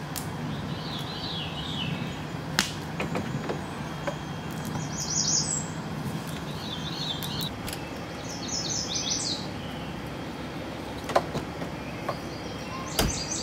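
Songbirds singing in short series of high chirps that recur every couple of seconds, over a steady low hum in the first half, with a few sharp clicks.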